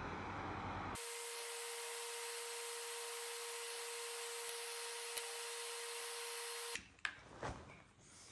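Antique electric hair dryer running: a steady rush of air with a steady motor whine. The sound changes abruptly about a second in. Near the end it stops suddenly and a few sharp clicks and knocks follow.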